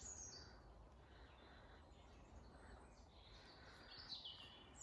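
Near silence, with faint, high, falling bird chirps near the start and again near the end.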